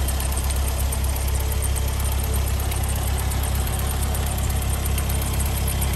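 Ford four-cylinder engine with a Weber carburettor conversion and exhaust headers idling steadily. It runs really sweetly and evenly.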